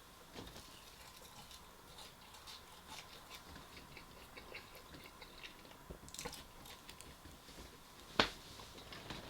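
A person chewing food close to the microphone: soft, scattered mouth clicks and crunches, with one sharper click about eight seconds in.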